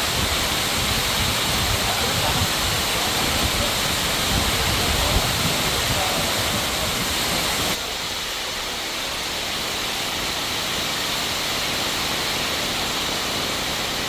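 Heavy rain pouring down steadily, with a low rumble under it. About eight seconds in it cuts suddenly to slightly quieter rain without the rumble.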